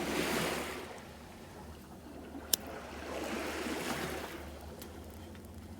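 Small waves washing onto a sandy beach, swelling up twice and falling away, with a steady low hum beneath and a single sharp click about two and a half seconds in.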